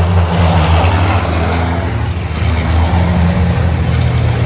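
Turbo diesel racing trucks running hard on the circuit, a loud, steady engine drone.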